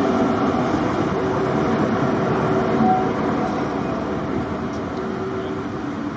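Diesel locomotive engine running, a loud steady rumble that slowly gets quieter over the last few seconds.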